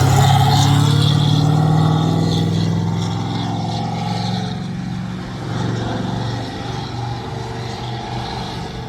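Motor vehicle engine running at steady high revs, loud at first and fading gradually as the vehicle moves away.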